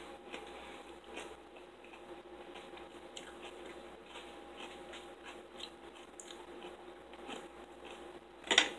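Close-up eating sounds: chewing and biting with many small wet mouth clicks, a peeled orange being eaten. A brief, louder knock comes near the end.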